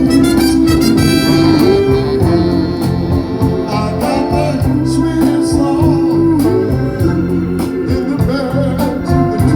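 Live soul band playing an instrumental passage: long held organ-like keyboard notes over bass and a steady drum beat.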